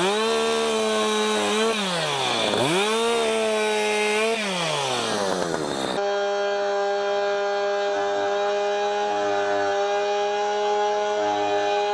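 Echo 620P two-stroke chainsaw cutting storm-fallen hardwood. Twice in the first half the engine's pitch drops as the chain bogs into the wood, then climbs back. From about halfway on it runs at a steady high pitch.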